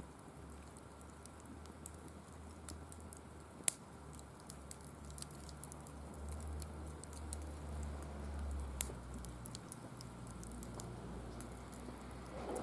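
Firewood crackling and popping in a mesh fire pit: scattered sharp snaps at an irregular pace, two louder pops about 4 and 9 seconds in, over a low steady rumble.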